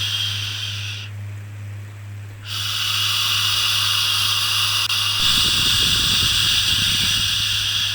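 Long shushing 'shhh' hisses for soothing a baby: one breaks off about a second in and the next starts about two and a half seconds in and is held, over a steady low hum.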